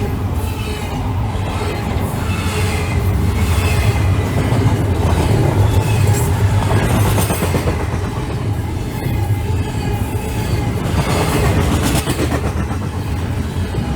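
Union Pacific freight train rolling past, its wheels clicking over rail joints over a steady low rumble.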